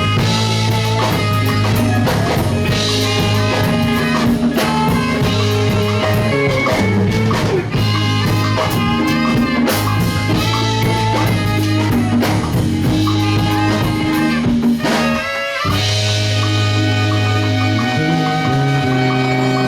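A live rock band playing: guitar and drum kit over strong sustained low notes. About 15 seconds in, the low notes drop out briefly before the band comes back in.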